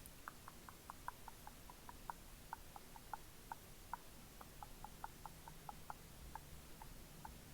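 Faint, quick clicks or taps, about four or five a second at an uneven pace, made as an ASMR trigger.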